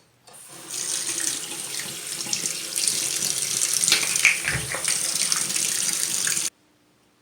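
Water running from a tap into a sink, starting just after the opening and turned off abruptly about six and a half seconds in, most likely while rinsing out the gecko's food dish.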